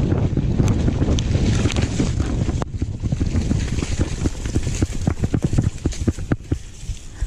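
Wind buffeting the microphone of a camera on a downhill mountain bike, with a steady low rumble and many sharp knocks and rattles of the bike over rough, wet trail. The rumble eases a little after about two and a half seconds while the clatter goes on.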